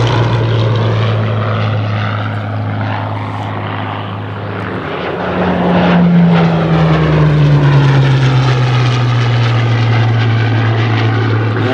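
Hawker Hurricanes' Rolls-Royce Merlin V12 engines running in flight, a steady engine note with a louder pass about halfway through whose pitch falls as the aircraft goes by.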